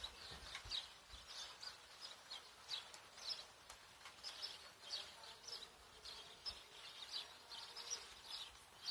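Songbirds singing faintly: a run of short, high chirps a few times a second.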